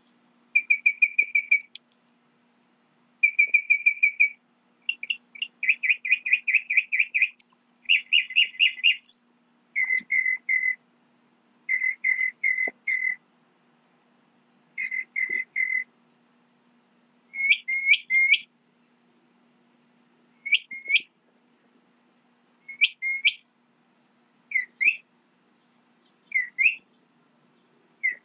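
A songbird singing loud whistled phrases: fast trilled series and runs of repeated notes, then single sharply up-slurred whistles every couple of seconds. A faint steady low hum runs underneath.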